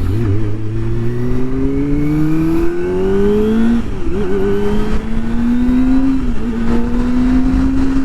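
Kawasaki Ninja ZX-25R's inline four-cylinder engine through a Yoshimura R-77 full exhaust, accelerating hard. The pitch rises steadily and dips briefly at upshifts about four seconds in and again a couple of seconds later, then holds steady at cruising revs.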